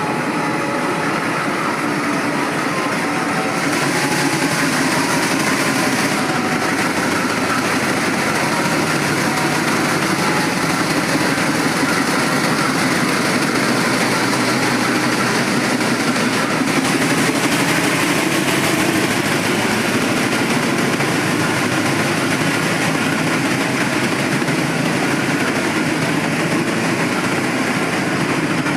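Diesel-hauled passenger train at the station: the steady, continuous running noise of the locomotive and carriages, growing a little louder about four seconds in.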